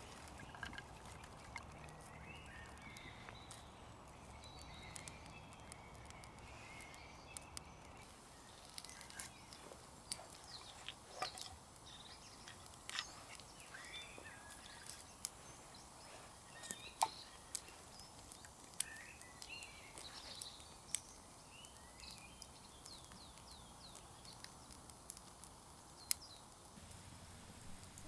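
Small wood campfire faintly crackling and popping as the feather stick and kindling catch, the pops coming more often after the first few seconds. Faint bird calls sound in the background.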